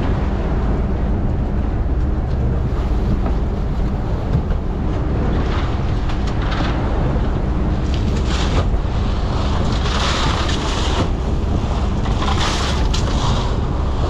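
Fishing boat's engine running steadily at sea. From about five seconds in, repeated rushes of wave and wind noise come over it.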